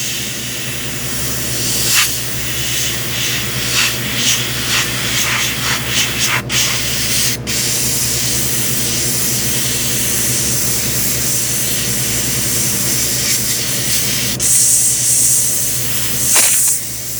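Airbrush spraying paint, a steady hiss that swells in short pulses and stops for an instant twice, over a steady low hum.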